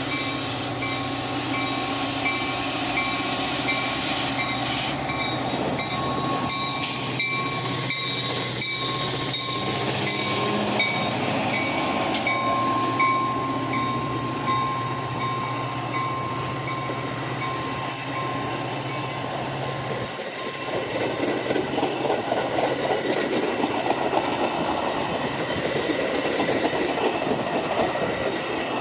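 A train passing: a steady low drone, then from about two-thirds of the way in, a louder rattling clatter of railcar wheels rolling over the track.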